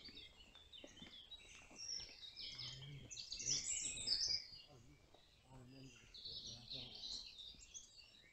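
Faint songbirds singing and chirping, busiest three to four seconds in, with faint voices talking in the distance.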